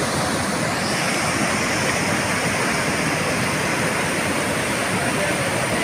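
Teesta river in flood: a loud, steady rush of swollen, fast-running water.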